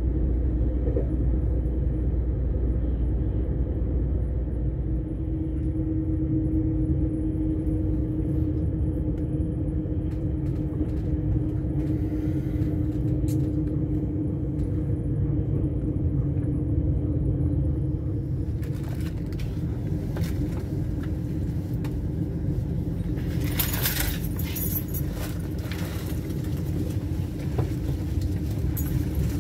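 Passenger train running: a steady rumble with a low hum. From past halfway there are scattered clicks and a short hiss about two-thirds of the way in.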